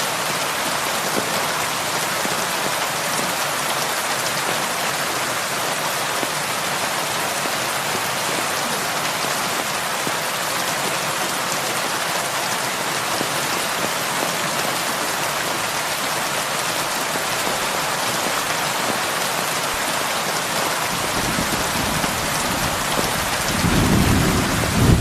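Heavy rain falling steadily in an even hiss. A low rumble of thunder builds over the last few seconds and grows loudest near the end.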